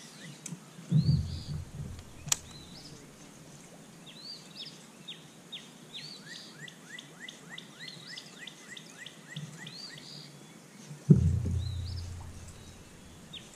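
Small birds chirping, a long run of short, downward-sliding chirps, at times several a second. A low thump comes about a second in and a louder one about eleven seconds in, with a small sharp click shortly after two seconds.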